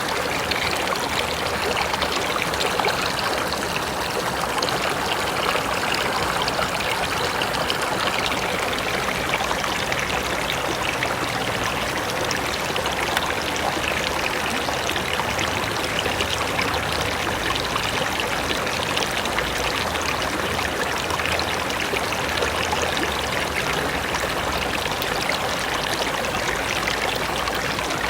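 A river running over rocks, a steady rushing and splashing of flowing water.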